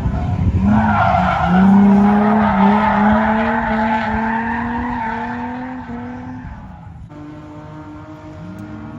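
A car drifting: engine held high in the revs, its pitch climbing slowly, under a loud tire squeal that lasts about five seconds. A sudden cut about seven seconds in gives way to a quieter engine running.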